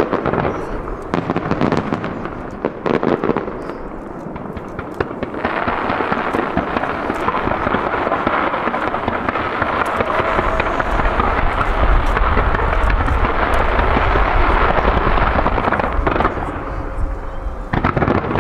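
Aerial fireworks in a computer-fired star mine barrage. The first few seconds bring separate bangs. About five seconds in they merge into a dense, continuous stream of rapid-fire bursts and crackle that grows loudest near its end, then breaks back into single bangs about sixteen seconds in.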